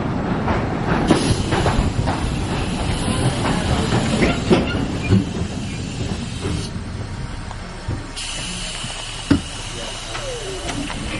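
Narrow-gauge steam train running on the rails, its wheels clicking and knocking over the track while steam hisses steadily from the locomotive. The hiss cuts out for a moment just past the middle, then comes back, and there is one sharp knock near the end.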